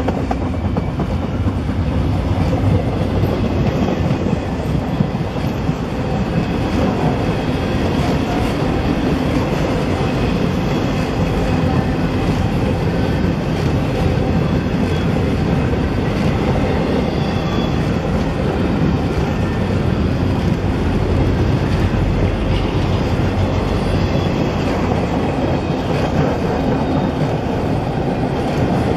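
Freight train of empty double-stack intermodal well cars rolling past close by: steady noise of steel wheels running on the rails, with no pause or change.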